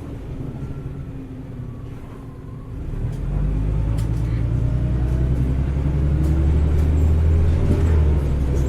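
Heuliez GX317 LPG bus engine heard from on board: a quieter low rumble, then about three seconds in it gets much louder as the bus accelerates, the drone strengthening and its pitch rising steadily.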